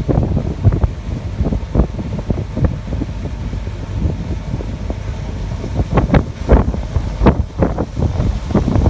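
Wind buffeting the microphone on an open ship's deck in irregular gusts, heavier about six to seven and a half seconds in.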